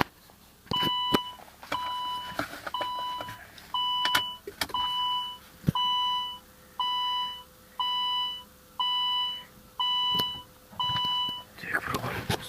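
Car's dashboard warning chime beeping once a second, eleven beeps in a row, with a few faint clicks, while the diesel's glow plugs preheat for a cold start. Near the end a louder rush begins as cranking starts.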